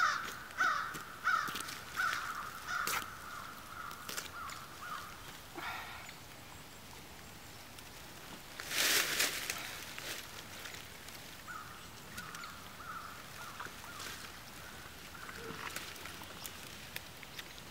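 A bird calling in two runs of short repeated notes at one pitch, the first early in the clip and the second a little past the middle, over quiet woodland. About nine seconds in there is a loud, brief rustle of dry leaves, with light scuffs and clicks of handling elsewhere.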